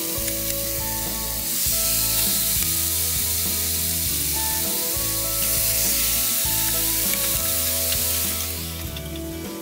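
Raw chicken thighs sizzling as they are laid on the preheated griddle plate of a Ninja Woodfire electric grill. The sizzle swells twice, about a second and a half in and again about five and a half seconds in, as fresh pieces go down, over light background music.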